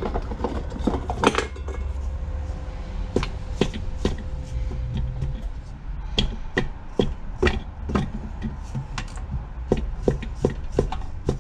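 Repeated sharp knocks and taps of a hand tool against the cast-iron 12 hp Briggs & Stratton engine being torn down, irregular at roughly one or two a second and coming faster in the second half, over a steady low hum. It is typical of tapping a piston out through the cylinder bore.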